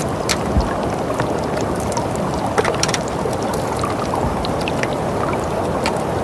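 A steady low rushing noise with many small, sharp crackles and ticks scattered irregularly through it.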